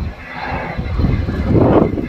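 Strong wind buffeting the microphone: an irregular low rumble that surges in gusts, loudest near the end.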